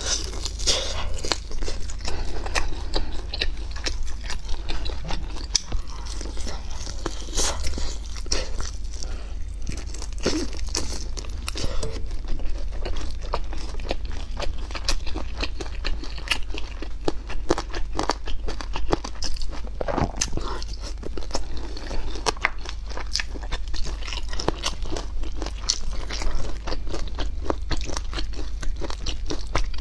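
Close-miked eating: many sharp crunching bites and chewing of fried chicken, over a steady low hum.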